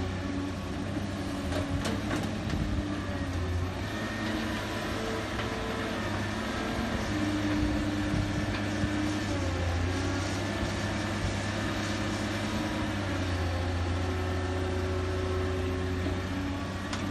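Diesel engine of heavy earthmoving machinery running steadily, with whining tones that rise and fall over the hum and a few faint knocks about two seconds in.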